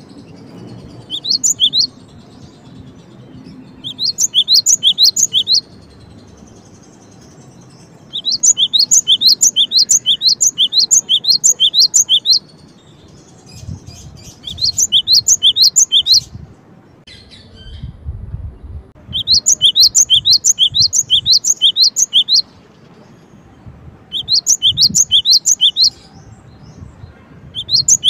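Gelatik batu (cinereous tit) singing: bouts of quick, high, sharp notes repeated in a fast series, each bout lasting one to four seconds, with short pauses between.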